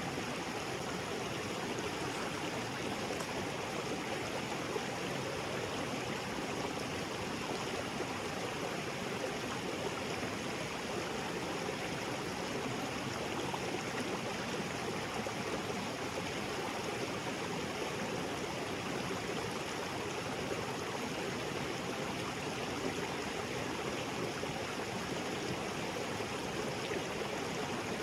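Small waterfall splashing into a rocky creek, a steady, even rush of water with no changes.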